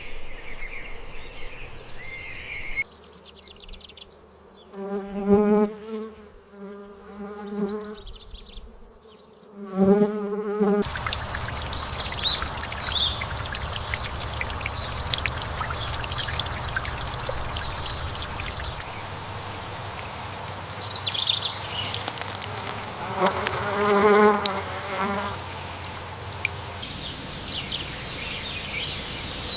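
An insect buzzing past several times in short passes of a second or two, with bird chirps over steady outdoor background noise.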